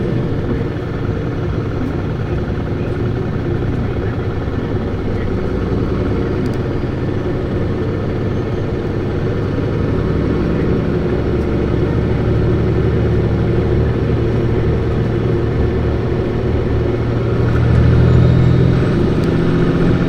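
Diesel engine of a 2008 Isuzu Erga city bus (PKG-LV234Q2) running under way, revved hard, with road noise. The engine swells to its loudest near the end.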